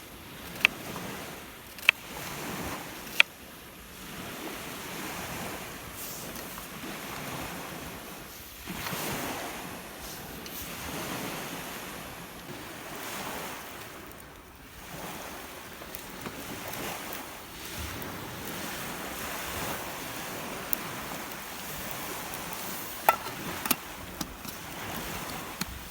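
Rough, wind-driven lake waves washing onto the shore, a steady rush that swells and eases every few seconds. A few sharp clicks cut through it, three in the first few seconds and a small cluster near the end.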